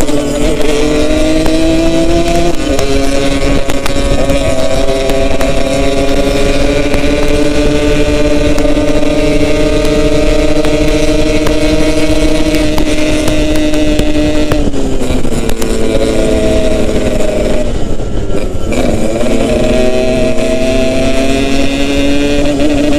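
Yamaha RX-King's 135cc two-stroke single-cylinder engine running while the bike is ridden, its note holding steady for long stretches. The pitch falls about fifteen seconds in, dips again near eighteen seconds and then climbs back up.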